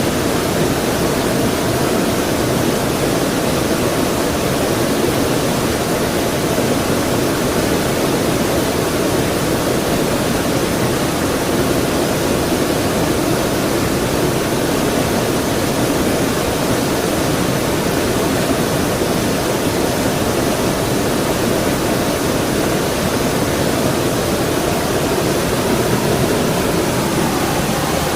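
Stream water rushing, a loud, steady, even noise.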